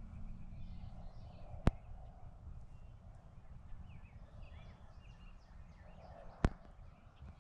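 Faint bird calls over a low rumble of wind, broken by two sharp clicks about five seconds apart.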